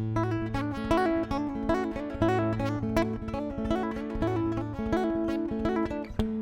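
Instrumental guitar music: plucked notes in a steady, repeating melodic pattern over ringing low bass notes.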